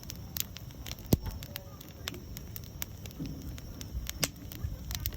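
Wood campfire crackling, with irregular sharp pops over a low steady rumble and one loud pop about a second in.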